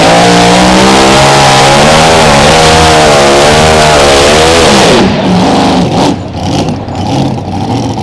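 Mini Rod pulling tractor's engine running very loud at full throttle, its pitch wavering. About five seconds in the throttle is cut: the sound drops sharply and the pitch falls away as the engine winds down.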